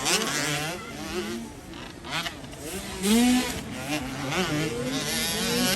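Several dirt bike engines revving up and down in turn, their pitch rising and falling repeatedly as the bikes race.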